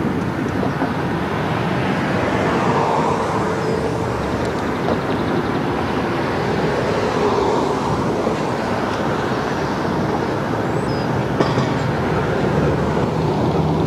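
Steady rumble of a passing vehicle, with no clear starts or stops.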